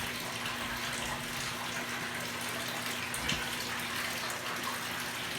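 Steady rush of water running in a washing machine, with a constant low hum underneath.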